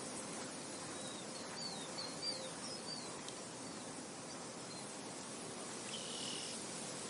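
Steady wind rushing, with a run of short bird chirps about one to three seconds in and another brief call near the end.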